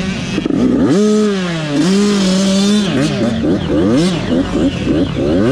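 Several motocross dirt bike engines revving hard on track, their pitch climbing and dropping again and again as the riders accelerate, shift and back off.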